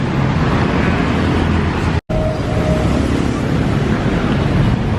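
Steady busy street noise: a low rumble of traffic with wind on the microphone, broken by a sudden split-second dropout about two seconds in.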